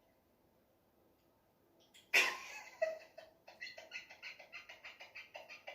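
A woman breaks into laughter about two seconds in, then giggles in a quick, even run of short pulses, about four or five a second.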